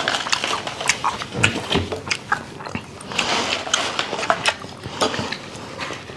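Close-miked chewing and mouth sounds of people eating rice and beef, with short clicks of spoons and forks on plates.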